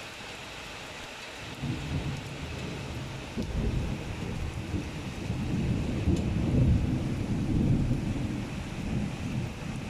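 Heavy rain falling steadily, with a long rumble of thunder that sets in about a second and a half in and rolls on, swelling and fading.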